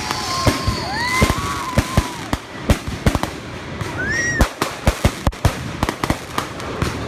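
Consumer firework cakes firing in a rapid string of sharp bangs, several a second, with a few short gliding whistles among them.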